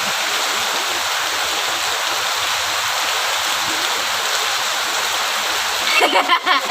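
Heavy rain falling: a steady, even hiss of rain. A brief voice cuts in near the end.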